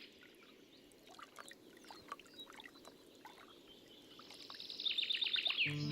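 A small songbird singing a quick run of high notes that falls away at the end, over faint woodland ambience with scattered soft chirps.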